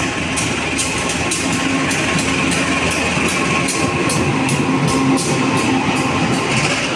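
Train passing close by, its wheels clacking irregularly over rail joints and points, about two or three clacks a second, over a continuous rolling rumble with a faint steady hum.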